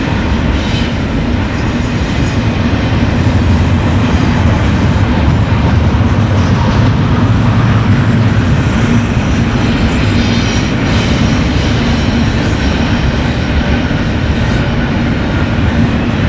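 BNSF freight train rolling past, a steady rumble of steel wheels on the rails.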